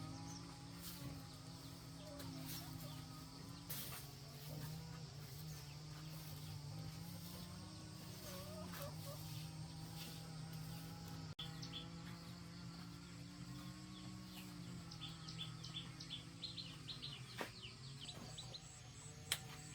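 Outdoor insect chorus with a steady high buzz, and a few short bird chirps in the second half. A low steady drone runs underneath, with scattered light clicks.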